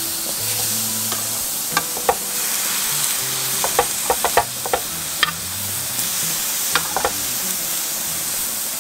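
Eggplant slices sizzling on a hot ridged grill pan, with sharp clicks of metal tongs against the pan as the slices are turned, a quick run of them about four seconds in.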